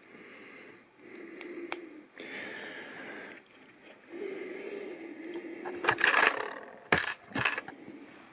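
Plastic LEGO pieces being handled: sliding and rubbing noises, then a run of sharp clicks and clacks near the end.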